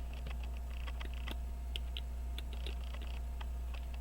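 Light, irregular clicks and ticks from small tools handling a pocket watch movement, over a steady low hum.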